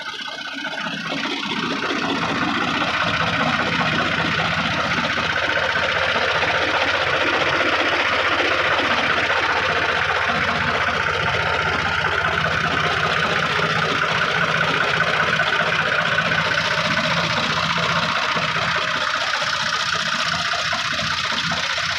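Tractor engine running steadily, growing louder over the first couple of seconds and then holding an even note.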